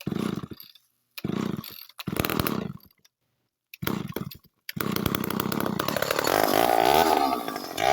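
Chainsaw being pull-started: four short bursts with gaps between them, then the engine catches about five seconds in and keeps running, revving up near the end.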